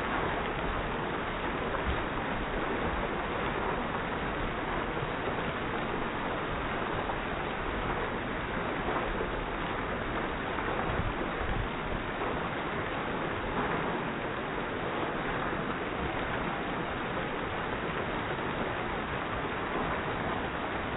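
Hail falling in a dense, steady shower of small impacts that does not let up.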